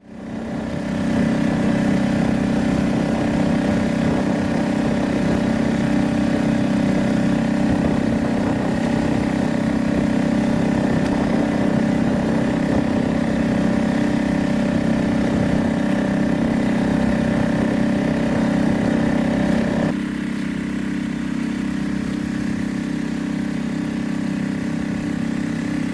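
Small boat outboard motor running steadily, then throttling back slightly about twenty seconds in.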